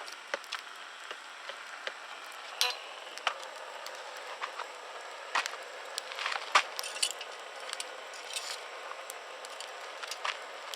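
Campfire burning, its wood crackling with irregular sharp pops over a steady hiss; the loudest pops come about a third and two-thirds of the way through.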